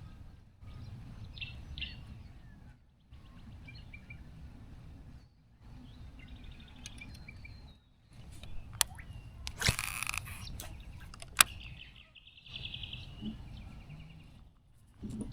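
Birds chirping and calling over a low steady rumble that drops out briefly several times. A few sharp clicks and one short loud burst come a little past halfway.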